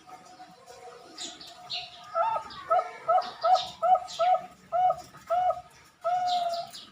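Zebra dove (Bangkok perkutut) cooing: a quick run of about eight short coos, then one long held note near the end. Other small birds chirp faintly and high-pitched behind it.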